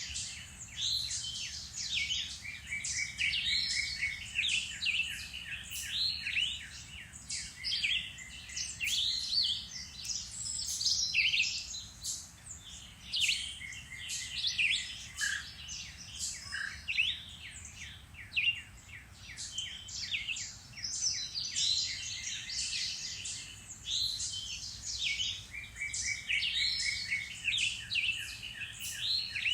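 Several woodland birds singing at once in a dense spring chorus of chirps, whistles and quick repeated trills, over a faint low rumble.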